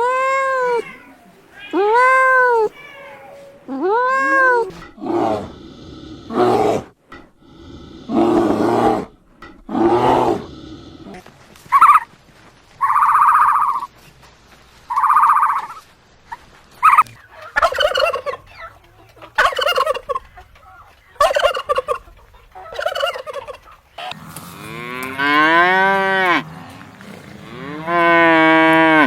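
A run of different animal calls, one after another. It opens with arched meow-like calls, then moves through shorter, harsher calls of farm birds. It ends with long, low cattle moos starting about five seconds from the end.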